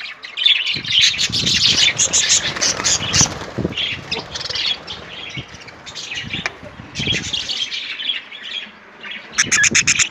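A group of budgerigars chattering with quick high chirps and squawks, with scattered low thumps mixed in through the middle. The chirping turns dense and rapid near the end.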